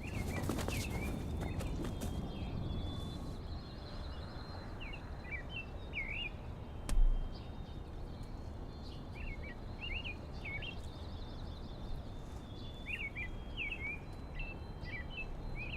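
Small birds chirping in short repeated clusters over a steady hum of outdoor background noise, with one brief low thud about seven seconds in.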